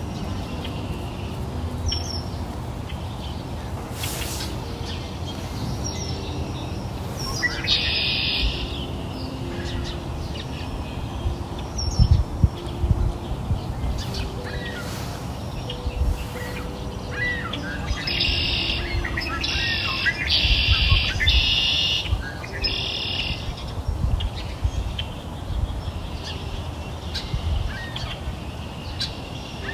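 Birds chirping and singing in bursts, clustered about eight seconds in and again about two-thirds of the way through, over a steady low background sound.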